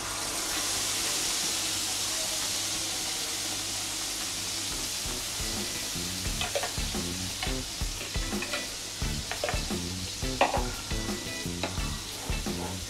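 Spiced yogurt mixture sizzling as it is poured into hot oil in a frying pan, loudest at first and dying down. In the second half a wooden spatula scrapes and clicks against the pan as the mixture is stirred.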